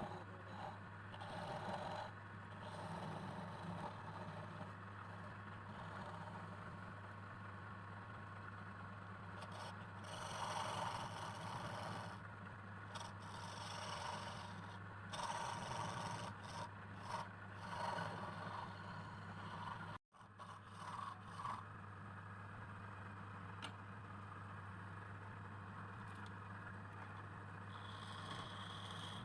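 Irregular scraping and rubbing strokes over a steady low hum, cut off by a sudden brief gap about two-thirds of the way through.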